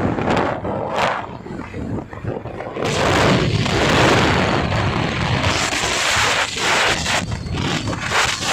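Wind buffeting the microphone on a moving bike: a loud, uneven rumble that swells and dips, with a few sharp knocks.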